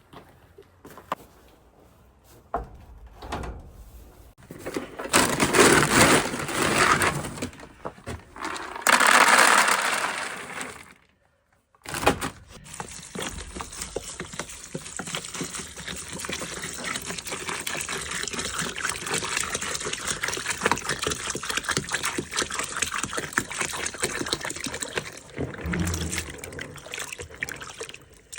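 Running water: a steady rush, after two louder surges and a short break near the start.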